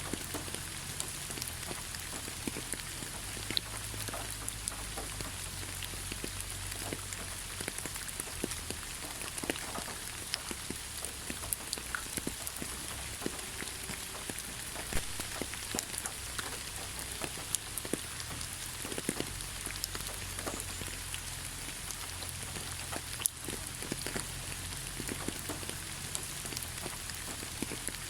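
Steady light rain falling on leaves: an even patter with many separate drop ticks.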